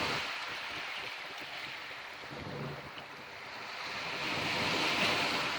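Lake Michigan waves washing onto the shore: a steady rush that ebbs about halfway through and swells again near the end.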